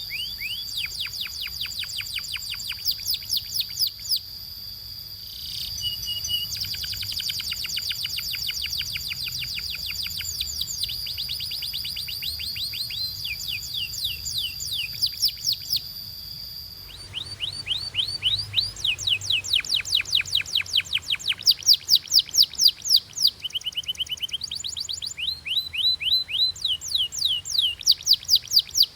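Canary singing: rapid trills of quick downward-sweeping high notes, one tour after another at several different speeds and pitches. A steady high tone runs under the song until about halfway through, where the recording changes.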